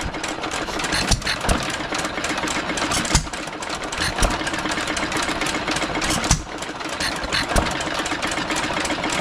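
Three antique hit-and-miss stationary gas engines, a Sattley, a Hercules and a Saxon, running together. There is a steady fast clatter with a louder firing bang every one to two seconds at uneven spacing.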